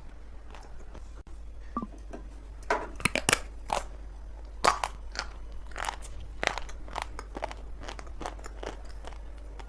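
Lumps of dry multani mitti (fuller's earth clay) being bitten and chewed: a run of sharp, irregular crunches that starts a few seconds in, after a quieter opening.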